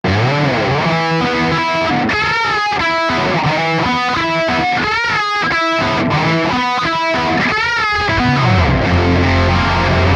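Intro riff of an instrumental rock song played on distorted electric guitar, with notes bent up and back down in pitch. A low held note comes in near the end.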